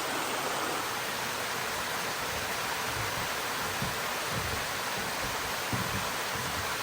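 Fall Branch Falls waterfall: water rushing in a steady, even roar of falling water.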